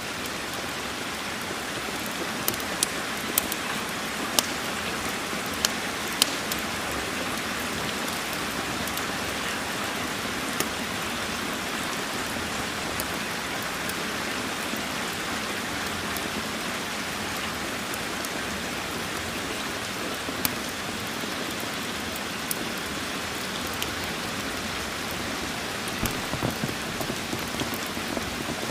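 Steady rain hissing, with scattered sharp pops: a few in the first seconds and a small cluster near the end.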